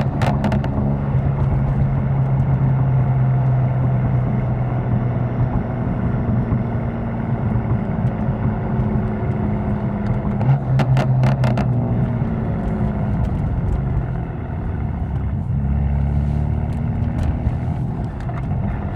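BMW M4 engine, a twin-turbo inline-six with an FI exhaust and catless downpipes, running steadily under way. About ten seconds in there is a quick cluster of sharp pops, then the engine note falls as the car eases off.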